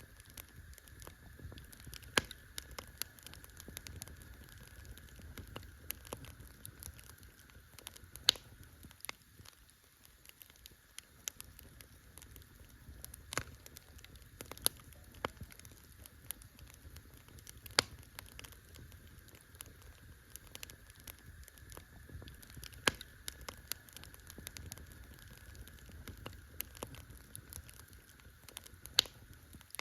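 Campfire burning, with irregular sharp pops and snaps of burning wood scattered over a soft low rumble of the flames.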